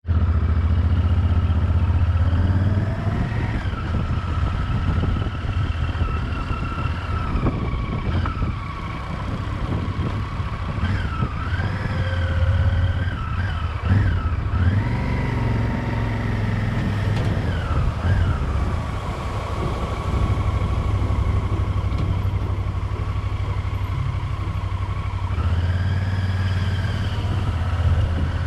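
Motorcycle engine running at low road speed, with a steady low drone and a whine that rises and falls with the throttle several times.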